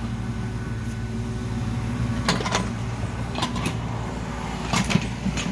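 Engine of construction equipment running steadily, with several sharp metallic clanks or knocks about two seconds in and again near the end.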